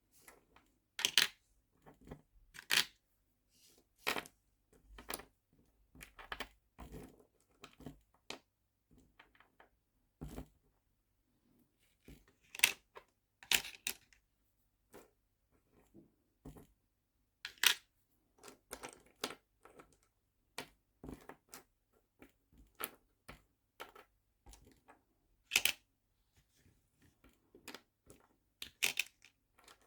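Small nail-art charms and little plastic storage boxes being handled: irregular sharp clicks, taps and brief rustles, one to three a second, with short pauses between.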